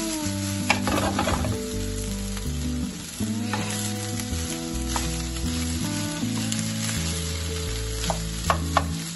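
Egg fried rice sizzling in a non-stick pan as it is tossed and stirred with a spatula, with sharp taps of the spatula on the pan about a second in and three near the end. Background music with slow-changing low notes runs underneath.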